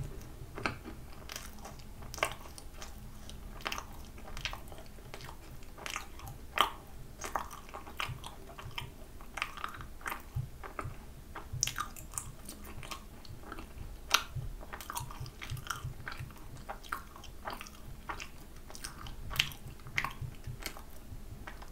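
Close-miked chewing of a sweet potato castella macaron with a castella crumb coating: irregular soft crunches and mouth clicks, with a few louder crunches here and there.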